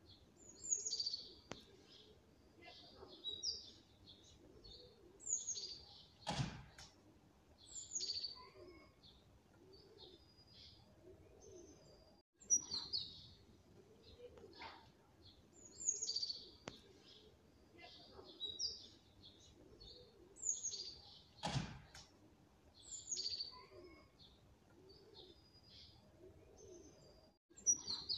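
Small birds chirping: short, high, falling chirps every second or two. The same stretch of birdsong repeats about every fifteen seconds, with a brief dropout just before each repeat.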